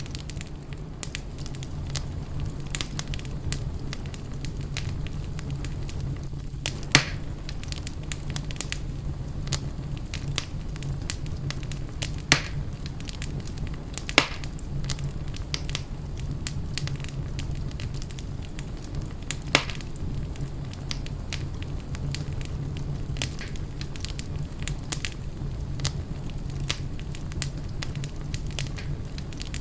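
Wood fire burning in a fireplace: a steady low rumble of flames with frequent crackles and a few louder pops.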